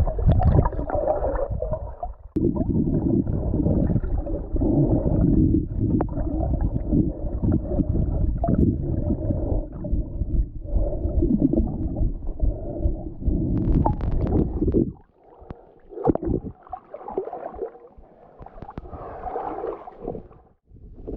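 Muffled gurgling and sloshing of lake water around a camera held at the surface while swimming, low and dense for most of the stretch. It drops away suddenly about fifteen seconds in, leaving quieter, patchy water noise.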